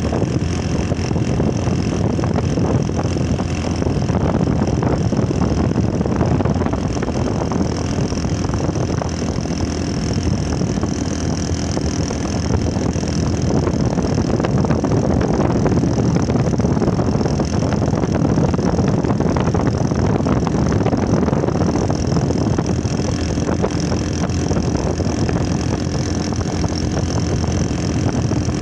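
Motorcycle engine running steadily, without revving up or down.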